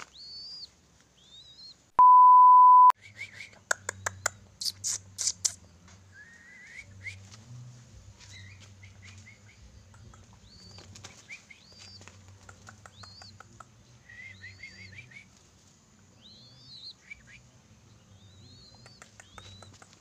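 A loud steady beep tone about two seconds in, lasting about a second. Then a quick run of sharp clicks, and short high bird chirps that rise and fall, repeating every second or two for the rest.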